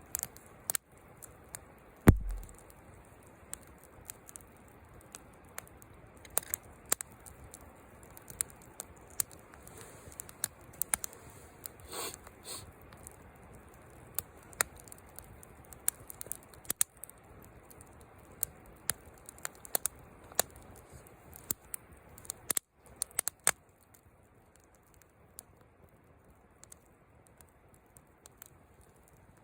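Wood fire crackling, with irregular sharp pops that thin out near the end. There is one heavy thump about two seconds in.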